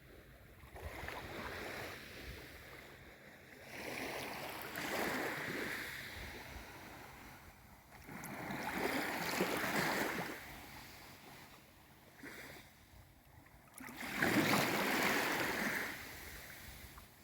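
Small waves of a calm sea washing in, four gentle surges about four seconds apart, each swelling and fading away; the last is the loudest.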